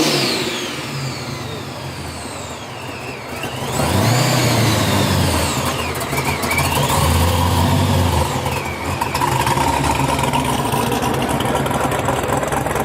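Vehicle engines running, with a steady low rumble that grows louder about four seconds in and high sweeps that rise and fall every few seconds.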